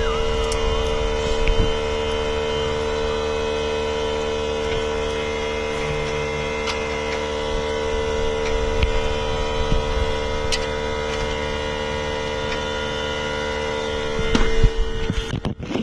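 Steady machine hum, one strong even tone with many overtones running unchanged, with a few faint clicks; it breaks off abruptly about a second before the end.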